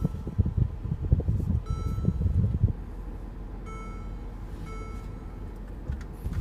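Electronic chime tones from a car's dashboard sounding three times, a second or two apart, over low cabin rumble that is heavier in the first few seconds.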